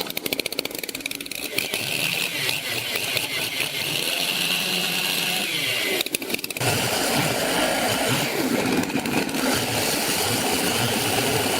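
Engine-driven wood-cutting saw running. Rapid clicking gives way to a steady high whine that sinks in pitch about six seconds in, and after a brief break a louder, denser noise carries on to the end.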